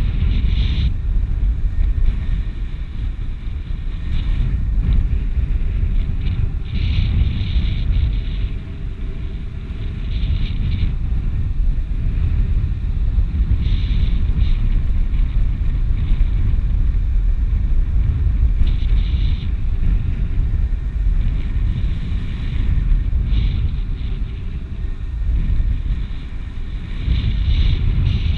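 Strong wind buffeting the microphone, a steady low rumble, with brief higher hissing gusts every few seconds.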